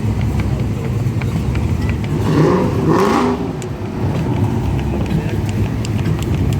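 Car engine running with a steady low rumble in slow traffic. A brief louder sound with shifting pitch rises over it about two seconds in and fades a second later.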